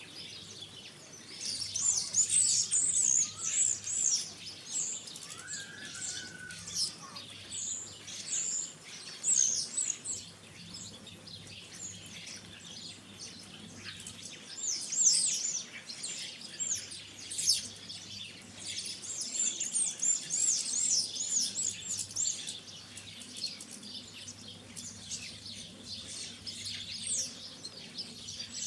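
Small garden songbirds chirping and twittering in bursts of rapid high notes, with one lower, sliding call about six seconds in.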